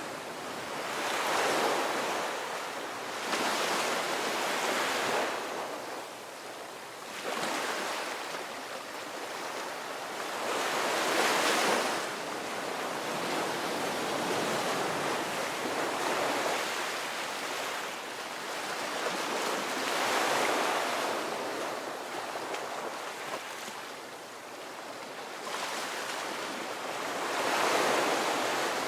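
Ocean waves breaking and washing up a beach, the surf swelling and fading in repeated surges every few seconds, loudest about eleven seconds in and again near the end.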